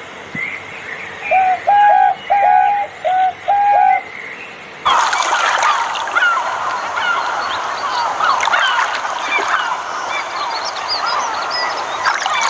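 Swan honking: five separate nasal honks in quick succession. About five seconds in, the sound switches abruptly to a flock calling together, many short overlapping calls over a steady hiss.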